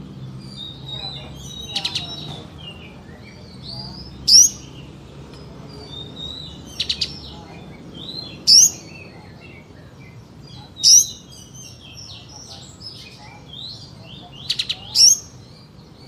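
Kapas tembak bird singing: four loud, sharp, rising whip-like 'shot' notes a few seconds apart over softer continuous twittering, with three quick bursts of triple ticks between them.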